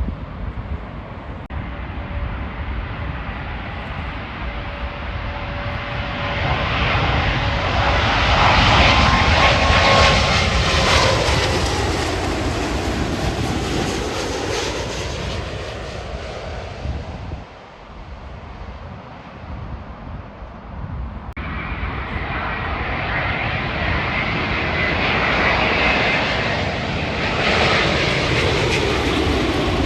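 Jet airliner passing close overhead, its engine noise building to a peak about ten seconds in, with a whine that falls in pitch as it goes by, then fading. After an abrupt break about two-thirds of the way in, a second airliner's engine noise rises and stays loud to the end.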